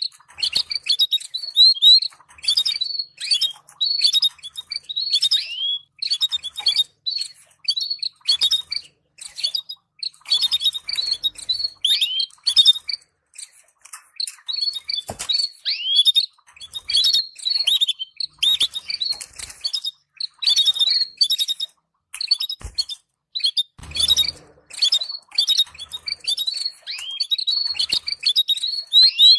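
Canaries giving a continual stream of short, quick chirps and twitters, many of them falling notes, broken by brief pauses. This is the chattering call played to stimulate canary breeding pairs.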